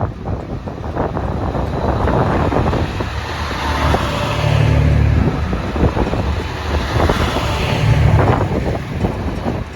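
JR East HB-E210 series hybrid diesel railcar running past, with a loud rumble and the low hum of its diesel generator engine, which swells about halfway through and again near the end.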